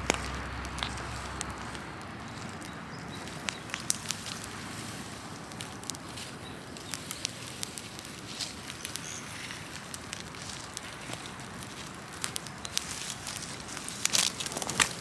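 Large open fire of burning tree branches crackling, with a steady hiss of flame and sharp pops scattered throughout, and a cluster of louder pops near the end.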